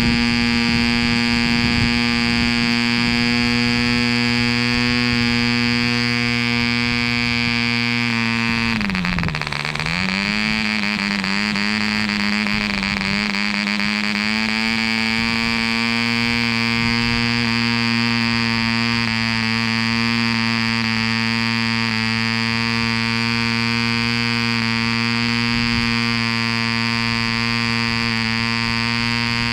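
Mills 0.75 cc single-cylinder model diesel engine, an Indian-made Aurora copy, running flat out with an 8x4 propeller as a loud, steady, high buzz. About nine seconds in its speed sags sharply, then it recovers over several seconds and holds steady again at a slightly lower pitch.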